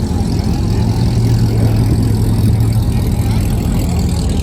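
Car engine idling close by with a steady, deep exhaust note.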